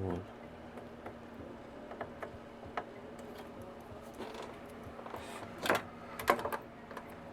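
Small clicks, taps and light knocks of parts and tools being handled on a workbench during a MiniDisc deck repair, with a soft thump at the start and a few louder clicks in the second half, over a faint steady hum.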